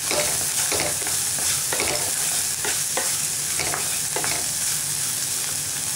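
Chopped onions, peanuts and dals frying in oil in a pan for a tempering, with a steady sizzle. A wooden spatula stirs and scrapes the pan in regular strokes about once a second.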